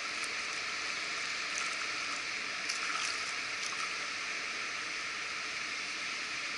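Steady rush of flowing water, even and unbroken, with a few faint clicks about two to three seconds in.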